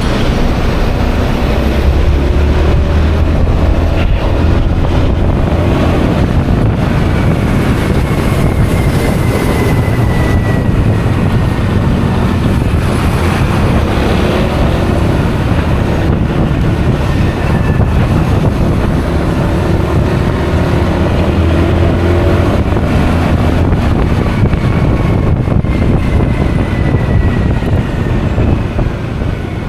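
Heavy wind rush on an action camera's microphone while riding a Honda Forza 350 scooter at speed, with the scooter's single-cylinder engine and road noise under it. Faint whining tones slide slowly in pitch now and then.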